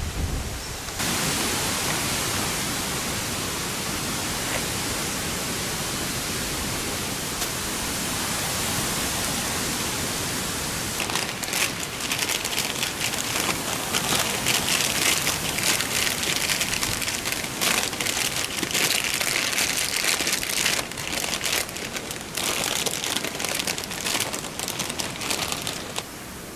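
Typhoon wind and rain: a steady rushing hiss that turns, about eleven seconds in, into a dense, uneven crackle of raindrops striking close by.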